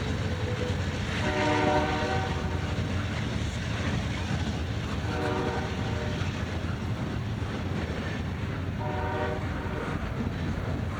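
Diesel locomotive air horn sounding three separate blasts, each about a second long, over the steady low rumble and clatter of a train on the rails.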